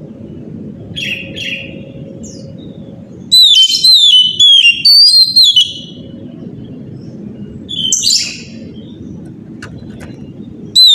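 Oriental magpie-robin singing. A loud run of repeated sliding whistles starts about three seconds in, with shorter phrases before it and again near eight seconds, over a steady low background noise.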